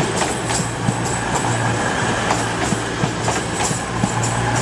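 Class 220/221 Voyager diesel multiple unit moving through the station, with its underfloor diesel engines humming steadily and its wheels clicking irregularly over rail joints.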